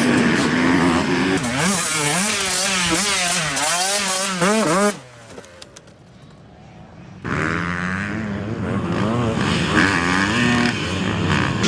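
Dirt bike engines revving, the pitch rising and falling quickly over and over as the throttle is worked. About five seconds in the engine sound cuts off suddenly, and for about two seconds only a quieter hiss remains; then engine sound starts again.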